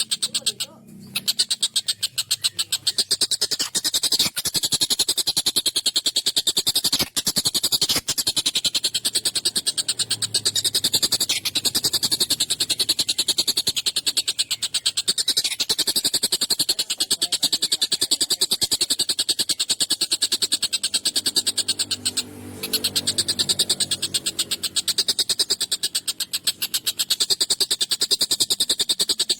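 Tengkek buto kingfisher calling in a long, fast, harsh chattering series of rapidly repeated notes. The series breaks off briefly about a second in, again around seven seconds, and once more past the twenty-second mark before resuming.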